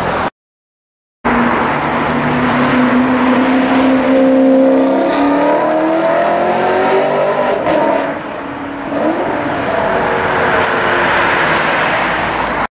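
Sports car engine accelerating hard, its note climbing steadily for several seconds, falling back about eight seconds in, then climbing again, with a couple of sharp crackles. A short dead silence about half a second in.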